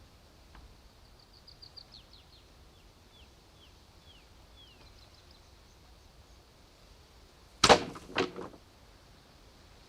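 A bird sings quietly, a run of quick high notes followed by several short falling whistles. Later come two loud thuds about half a second apart, each ringing on briefly.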